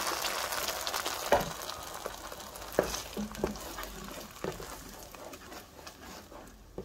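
Ground masala paste sizzling in hot melted butter in a steel pot, stirred with a wooden spoon; the sizzle dies away over the seconds as the paste covers the butter. A few knocks of the spoon against the pot.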